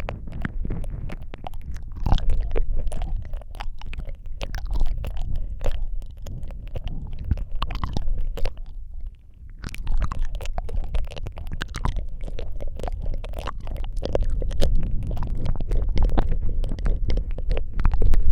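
Close-miked ASMR mouth sounds: a dense, irregular run of wet clicks and smacks over a deep low rumble, easing off briefly about halfway through.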